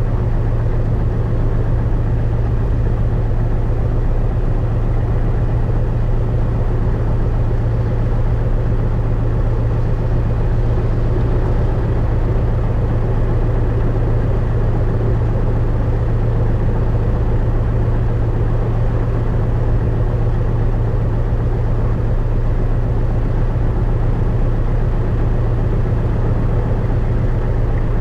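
Cessna 172RG's four-cylinder Lycoming piston engine and propeller running steadily at low power on the ground, an even low drone from inside the cabin.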